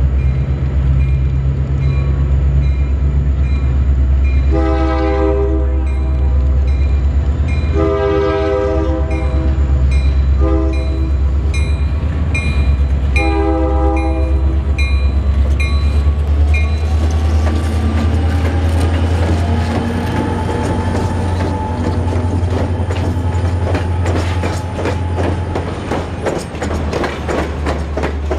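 EMD GP39 diesel locomotive pulling a passenger train away under power, its engine a steady low drone, with a bell ringing about twice a second. About four seconds in, its horn sounds the grade-crossing signal: long, long, short, long. After the horn and bell stop, the passenger coaches roll past close by, their wheels clicking rapidly over the rail joints with a faint high squeal.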